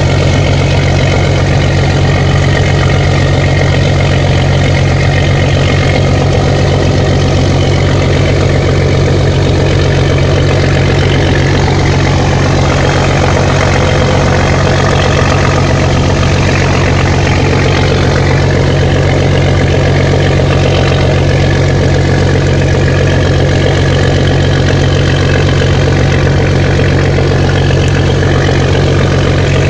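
A heavy engine running steadily: a loud, constant low drone with no change in pitch.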